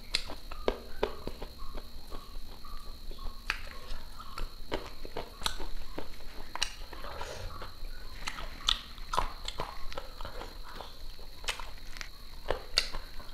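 A person chewing food close to a clip-on microphone, with wet mouth and lip smacks heard as irregular sharp clicks.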